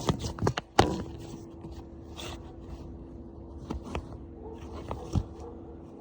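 Metal hand tools clicking and knocking against a small go-kart engine while working at the spark plug: a quick cluster of sharp clicks in the first second, a short scrape, then a few scattered knocks. A steady hum runs underneath.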